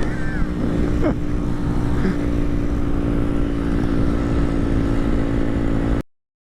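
Mini bike engine running at a steady speed over low rumbling noise, cutting off suddenly about six seconds in.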